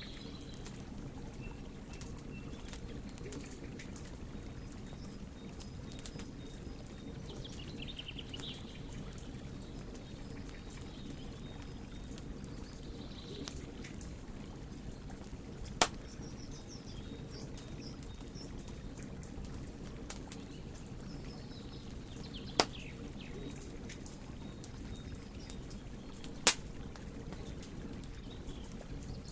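Wood fire burning with a steady low rumble and frequent small crackles, broken by three sharp loud pops in the second half. Birds chirp faintly now and then in the background.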